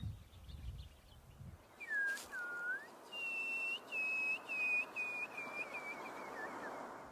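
A shorebird calling in clear whistles: two lower scooped notes, then a run of about seven higher notes that fall slightly in pitch and come shorter and quicker toward the end, over a steady hiss.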